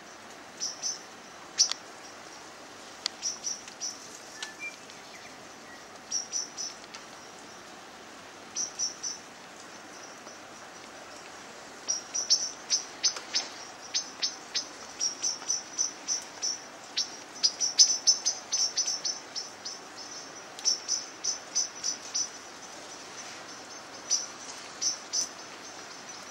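Small birds chirping in short, high notes, sparse at first and coming thick and fast from about halfway through, over a faint steady background hiss.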